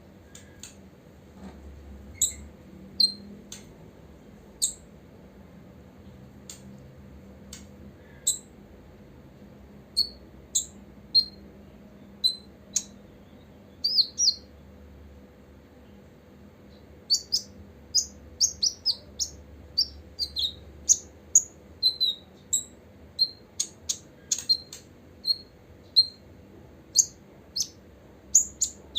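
Copper-throated sunbird calling in short, high chirps. They are scattered at first, then come in a quick, busy run after a short pause about halfway through.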